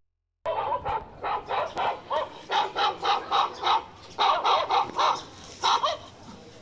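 A dog, likely a puppy, yelping in quick short high calls, about three a second, starting about half a second in with a couple of brief pauses.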